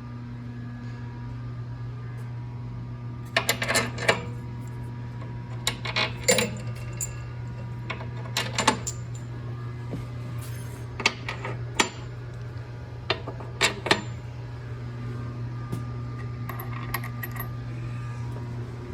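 Metal hardware and tools clinking and clanking as a bench grinder is bolted to its mount: a dozen or so sharp clinks, some in quick pairs, over a steady low hum.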